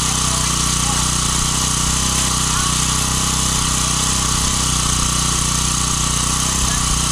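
An engine running steadily at a constant speed, a continuous drone with no change in pitch or level.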